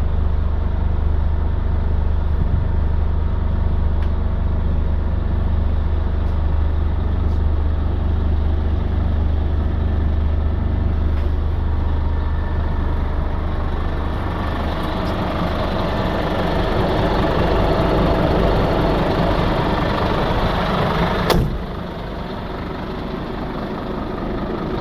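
Diesel engine of a Scania P 280 fire truck running steadily with a deep low hum. About fourteen seconds in, the low hum thins and a broader, hissier noise takes over. Near the end, a single sharp click, after which it runs a little quieter.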